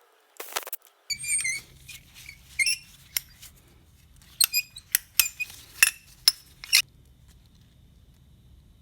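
Small metal parts or hand tools clinking and ringing against each other during engine work: about a dozen sharp clinks, with a steady low hum underneath from about a second in.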